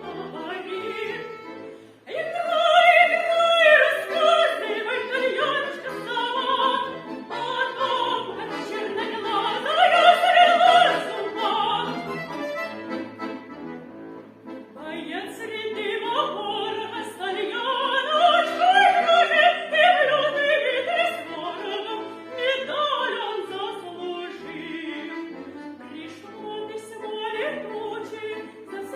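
A girl's solo voice singing a song with instrumental accompaniment, with a short break in the singing about two seconds in.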